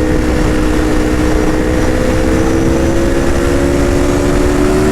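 Aprilia RSV4 RF's V4 engine pulling steadily in one gear, its note rising slowly as the bike gains speed, over a low rush of wind noise.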